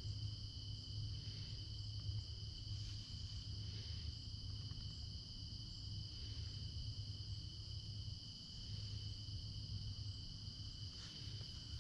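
Steady chorus of late-summer insects, a continuous high-pitched trill in two even tones, over a low background rumble.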